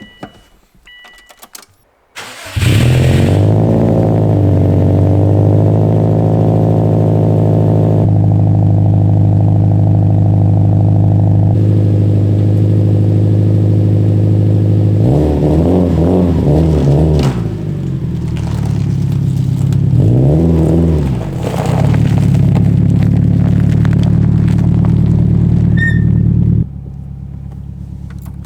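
Toyota MR2 (SW20) engine starting: it catches about two seconds in and settles into a steady idle. It is blipped twice, the revs rising and falling each time, then it is switched off near the end.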